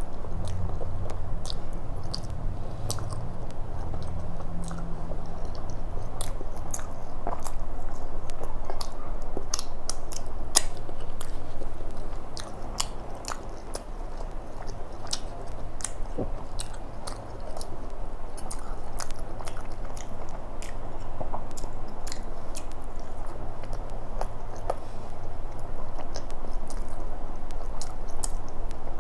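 Close-up chewing and lip-smacking of a person eating laccha paratha with paneer tikka masala by hand. Sharp, wet mouth clicks come irregularly, several every few seconds.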